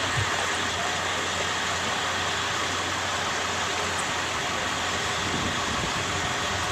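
Steady low rumble of a vehicle engine idling, with general outdoor background noise.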